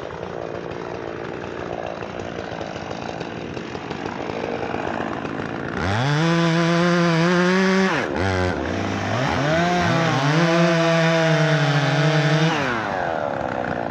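Two-stroke chainsaw running low for several seconds, then throttled up to full speed about six seconds in, held high with a brief dip, and again for about three seconds before dropping back near the end, as it bucks logs into firewood.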